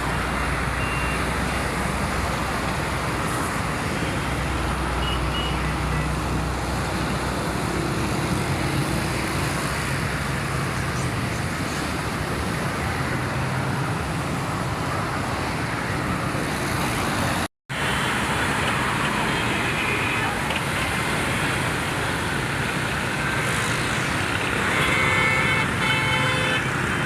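Steady road traffic noise from passing cars and trucks, broken by a brief dropout to silence about two-thirds of the way through.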